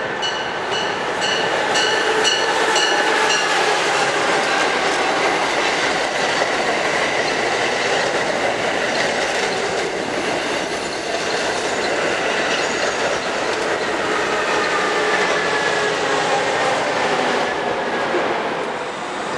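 Amtrak Acela Express trainset passing close by: a steady, loud rush of wheels on rail with faint whining tones sliding in pitch. Over the first few seconds there is a rapid high ticking, about three ticks a second. The sound drops away near the end as the last car clears.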